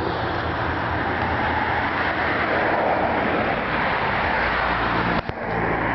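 Steady motor-vehicle noise with a low, even hum, briefly cut off about five seconds in.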